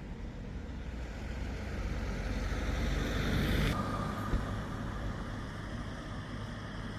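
Engine running with a low rumble and a rushing noise that grows louder to a peak about three and a half seconds in, then drops abruptly to a quieter, steady rumble.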